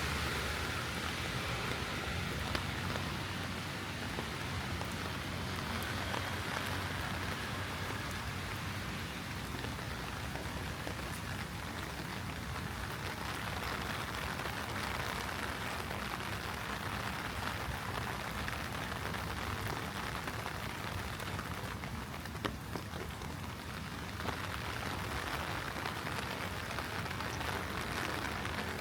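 Heavy rain falling steadily and spattering on surfaces, with a couple of brief sharper taps from individual drops.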